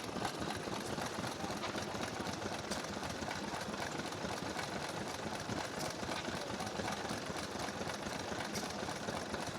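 Vista H stationary engine running steadily and ticking away while it drives a small piston pump.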